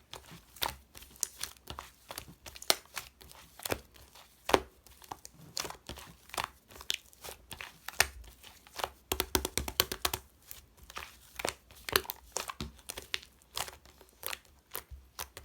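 Mint-chocolate slime being squished, stretched and pressed by hand, giving irregular crackling clicks and pops that come thick and fast about nine seconds in.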